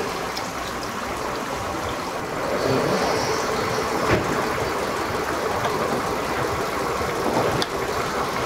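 Kia Rio's 1.6-litre engine idling steadily, with excess automatic transmission fluid running out of the gearbox's level-check plug in a thin stream while the level is set with the engine warm and running. A light click about four seconds in.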